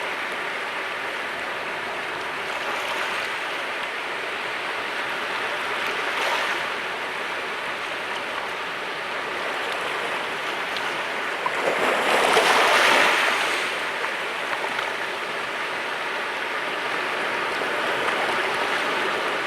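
Sea waves washing against the shore in a continuous hiss of surf, with one larger wave breaking about twelve seconds in as the loudest moment, and smaller swells before it.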